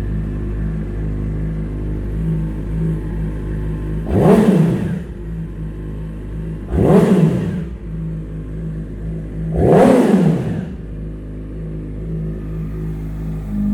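2014 Yamaha YZF-R6 inline-four idling through a Two Brothers aftermarket exhaust and revved three times, each rev rising quickly and falling back to idle.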